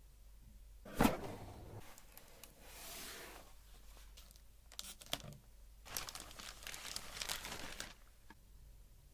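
Motherboard packaging being handled and opened: a sharp click about a second in, then several spells of crinkling and tearing rustles, the longest near the end.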